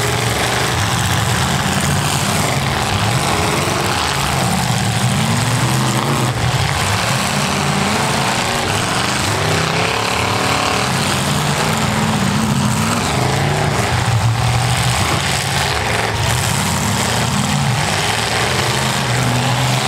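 Several V8 demolition derby cars running together on a dirt arena, their engines revving up and down continuously and loudly.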